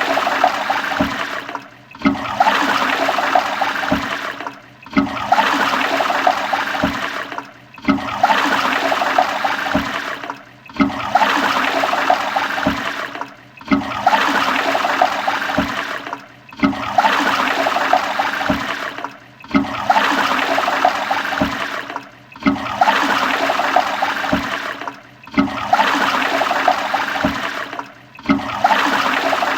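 Toilet flushing: a rush of water that repeats about every three seconds, each rush dropping away briefly before the next.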